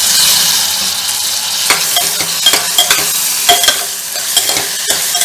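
Chopped tomatoes and onions sizzling in hot oil in a pressure cooker pan, stirred with a perforated metal ladle that clicks and scrapes against the pot. The sizzle is strongest in the first second, just after the tomatoes go in.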